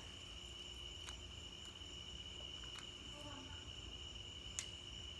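Faint, steady, high-pitched trilling of crickets. A brief faint voice comes in about three seconds in.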